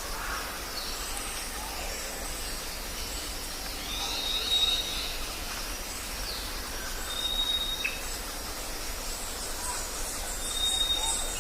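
Jungle ambience: a steady hiss of background noise with birds calling. A clear, high whistle is held for about a second three times, with scattered higher chirps around it.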